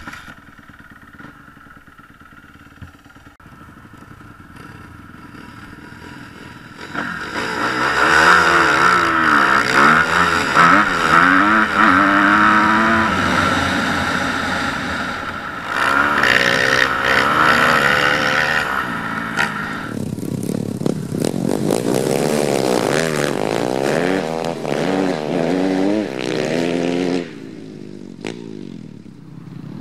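Four-stroke dirt bike engines being ridden, revving up and down again and again as the bikes accelerate and shift. The engines get much louder about seven seconds in and drop back near the end.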